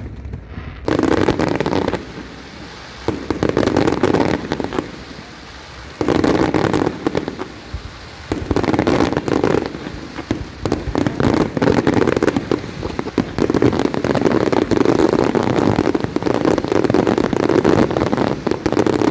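Large fireworks display: dense, rapid bangs and crackling in loud waves with short lulls in the first few seconds, then nearly continuous crackling barrage.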